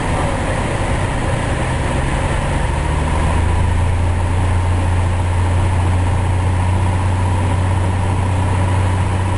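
Piper Cherokee Six's six-cylinder piston engine and propeller running steadily with a deep drone; about three seconds in, its note shifts and grows a little louder, as with a change of power.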